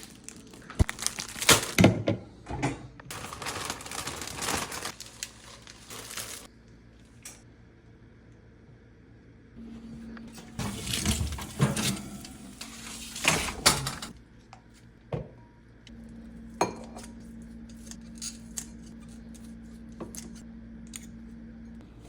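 Kitchen clatter of dishes, pans and utensils being handled, with clusters of knocks and clinks and stretches of rustling noise. In the later part a steady low hum runs under a few scattered clicks.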